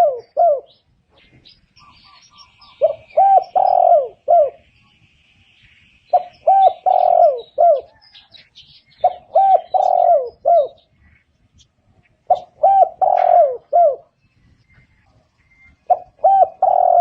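Spotted dove singing its cooing song: short phrases of four or five hoarse coos, repeated about every three seconds. Faint chirps of other small birds sound between the phrases.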